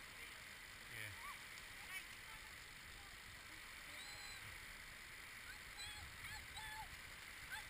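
Distant birds giving short honking calls several times, over a steady hush of surf and wind.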